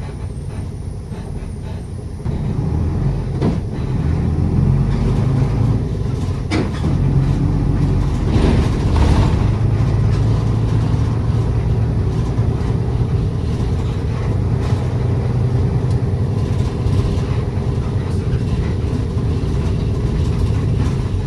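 A city bus's engine drones, heard from inside the cabin, and grows louder about two seconds in as the bus pulls harder. A few light knocks and a short hiss of air come around the middle.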